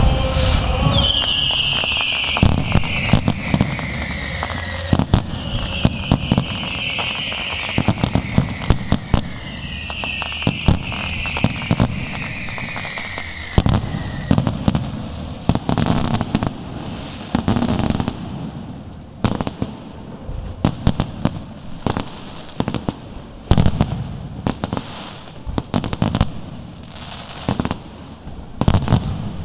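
Aerial fireworks display: a continuous run of sharp bangs and crackling bursts, some fired in quick volleys, with three long falling whistling tones in the first half.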